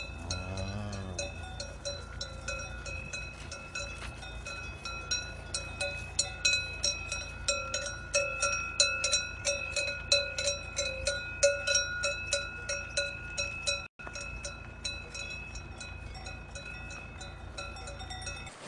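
Cowbells clanking on walking cows: rapid, uneven strikes, each leaving a ringing metallic tone, loudest in the middle stretch.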